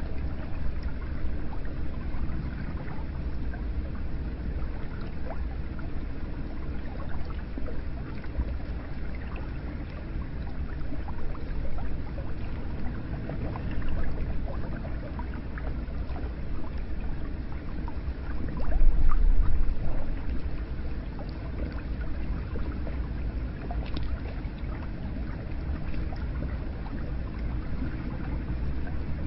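Hot spring water running into an onsen bath: a steady wash of splashing and gurgling water, louder for a couple of seconds about two-thirds of the way through.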